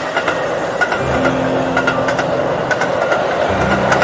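Keihan electric train running along the track: a steady rolling rumble with light clicking.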